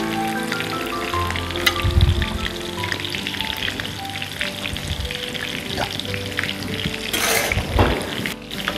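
Chicken fingers frying in vegetable oil in a pan, a steady sizzle with fine crackling, as tongs turn and lift the pieces. A short clatter of metal tongs comes about seven seconds in, over soft background music.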